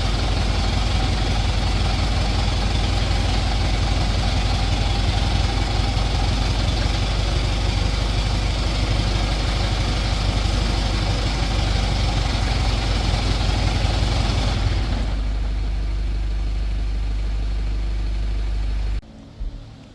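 Heavy-duty truck's diesel engine running with a deep, rough rumble. It turns quieter and smoother about three-quarters of the way through, then drops off sharply near the end.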